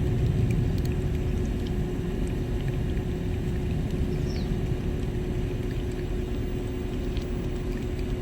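Steady low mechanical rumble with a constant hum running throughout, with a few faint high ticks and two short falling chirps.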